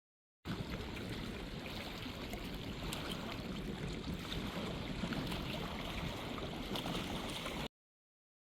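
Steady rush of wind and rain on a phone microphone during a thunderstorm, with a heavy low rumble of wind buffeting and scattered small ticks. It starts abruptly about half a second in and cuts off suddenly near the end.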